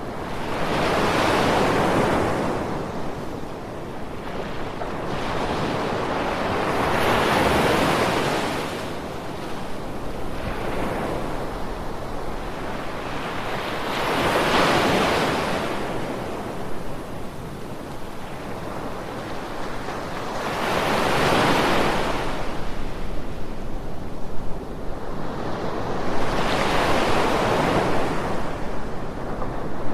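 Ocean waves breaking and washing up onto the shore: five swells of surf about six seconds apart over a steady rush of water.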